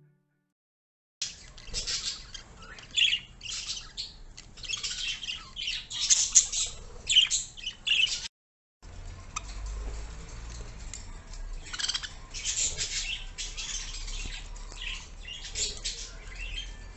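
Pet budgerigars chattering and squawking in quick high chirps. The calls start about a second in and break off briefly about eight seconds in.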